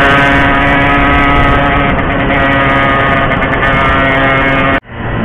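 Yamaha RX-King 135cc two-stroke motorcycle engine running at steady high revs, its note holding one pitch, then cutting off abruptly near the end.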